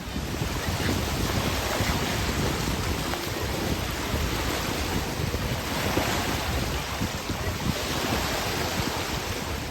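Wind on the microphone, a steady rumbling noise, over small lake waves washing onto a sandy beach.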